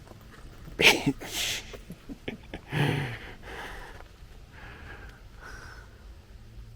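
Short, breathy bursts of a person's breath through nose and mouth: a sharp, loud one about a second in and another near three seconds.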